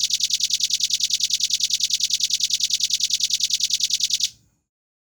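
Velvet-fronted nuthatch giving a long, fast trill of evenly spaced high notes, about ten a second, which stops about four seconds in.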